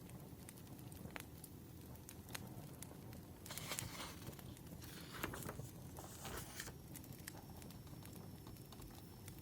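Wood fire crackling with scattered sharp pops over a low rumble, with paper rustling twice in the middle, like pages being turned or handled.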